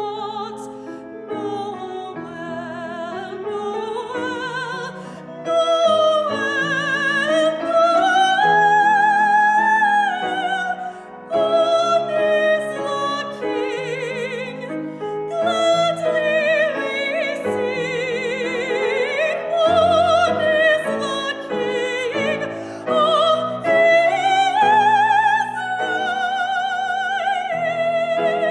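Classically trained soprano singing a slow melody with wide vibrato, held and gliding notes, over piano accompaniment.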